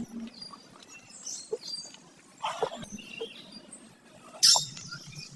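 Small birds chirping in short high notes, with a brief, louder, sharp call about four and a half seconds in.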